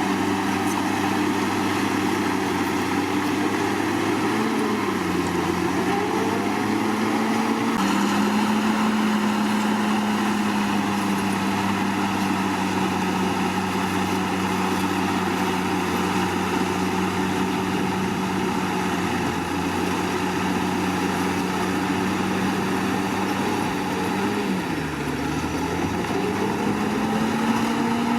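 Komatsu D61PX bulldozer's diesel engine running steadily. Its pitch sags briefly about five seconds in and again near the end, then comes back up.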